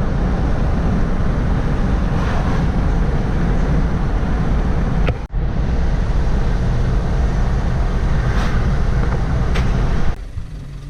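Loud, steady low rumble with hiss from a moving vehicle, broken by a brief dropout about five seconds in and falling to a lower level near the end.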